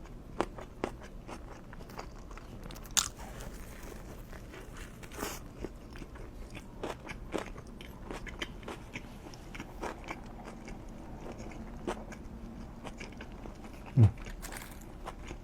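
Close-miked eating: a person biting and chewing food, with scattered crunches and wet mouth clicks and smacks. About fourteen seconds in, a single loud low thump.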